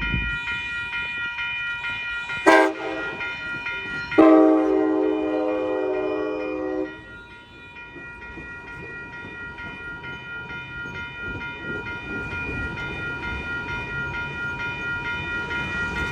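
Amtrak Capitol Corridor passenger train locomotive sounding its horn, a short blast and then a longer blast of about three seconds, followed by the rumble of the train rolling past, which grows louder near the end. A steady high-pitched ringing tone runs underneath throughout.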